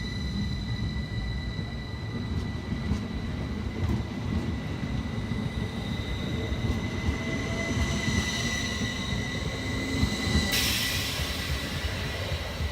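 Class 333 electric multiple unit pulling out of the station: a low rumble of wheels under a steady high electric whine, with a sudden hiss breaking in about ten seconds in.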